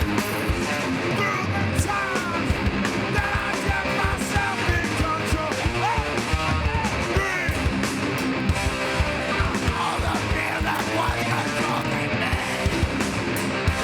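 Hardcore band playing live and loud: distorted electric guitars over fast, pounding drums, with yelled vocals.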